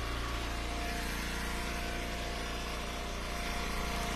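The engine of an Eastonmade Ultra hydraulic wood splitter running steadily, with a slight change in its low hum between about one and three seconds in.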